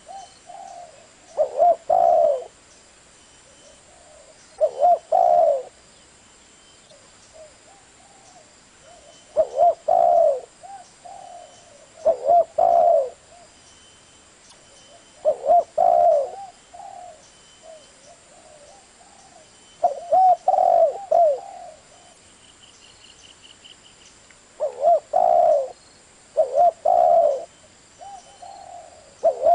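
Spotted dove cooing: short phrases of low coos, each about a second long, repeated every two to five seconds.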